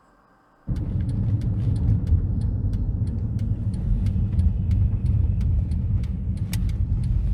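A low, steady rumble outdoors with scattered sharp clicks, starting suddenly under a second in.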